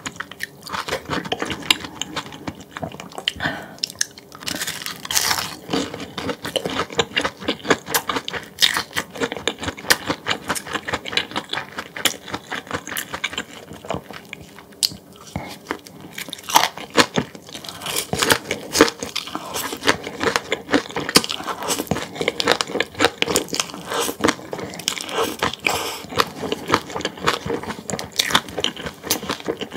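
Close-up eating sounds: steady chewing with many quick, uneven crunches and wet clicks.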